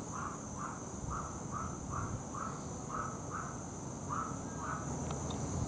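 A crow cawing over and over, about two caws a second, about ten in all, stopping shortly before the end. A steady high drone of insects runs underneath, with a low rumble of distant traffic or wind.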